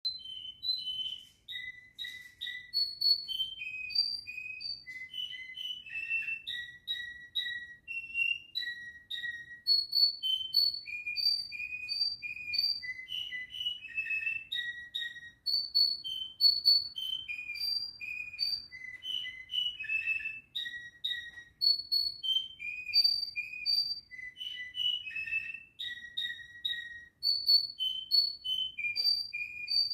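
Domestic canary singing a long run of clear whistled notes, each note often repeated two or three times, hopping between high and lower pitches without a break.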